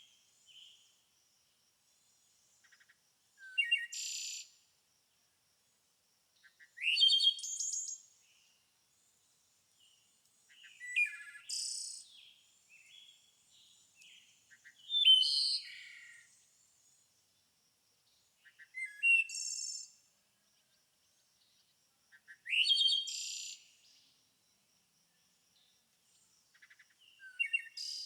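A songbird singing short, quick warbled phrases of about a second each, repeated every three to four seconds, with a faint high steady trill running behind.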